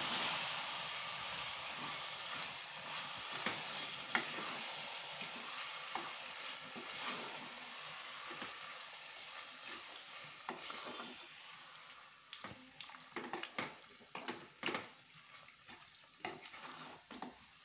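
Marinated chicken frying in oil with onion, tomato and masala, stirred with a wooden spatula that scrapes and knocks against the metal pot. The sizzle fades steadily, so by the second half the spatula's clicks and knocks stand out.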